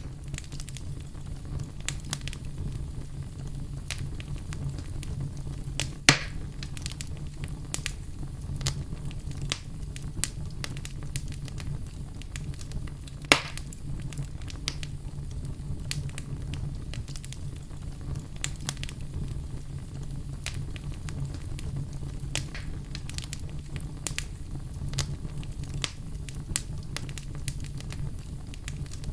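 Wood fire burning in a fireplace: a steady low rumble of flames with irregular crackles and snaps, and two louder pops about a third and halfway through.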